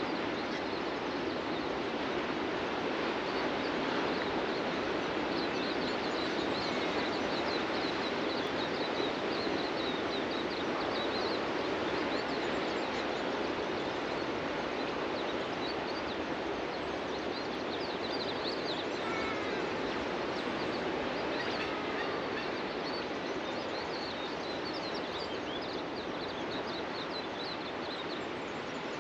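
Ocean surf washing onto a beach as a steady, even rush, with birds chirping over it in quick high-pitched runs and a few short falling calls.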